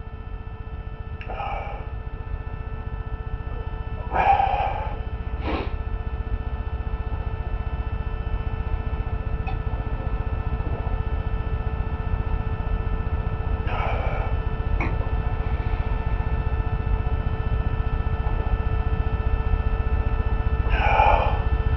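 Steady low hum with a few faint steady tones, broken by about five short breathy sounds from a person, such as exhales or sighs; the loudest comes about four seconds in.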